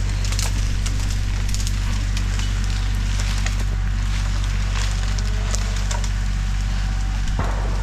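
Bobcat tractor engine running steadily under repeated crackling and snapping of wood and brush as a chokered log is dragged up the slope on the tractor's cable. A louder crack comes near the end.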